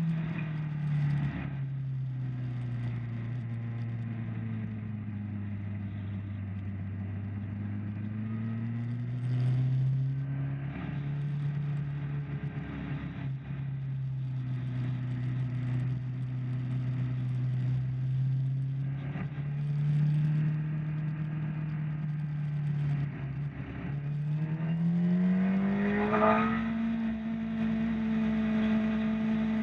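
Motorcycle engine under way on a race track, heard onboard with wind noise: the revs drop early on, hold fairly low and creep up through the middle, then climb steeply near the end as the bike accelerates hard.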